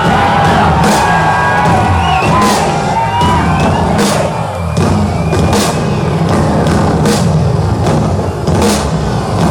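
Live hard-rock band playing loud: a lead line with bent, gliding notes over bass and drums, with regular drum and cymbal hits.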